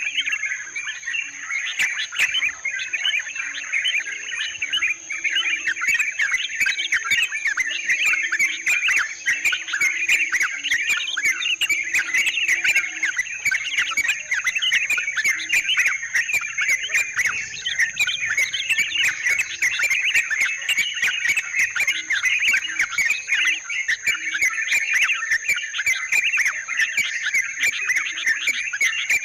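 Dense, continuous chatter of many yellow-vented bulbuls (trucukan) calling over one another, with a steady high-pitched whine running underneath.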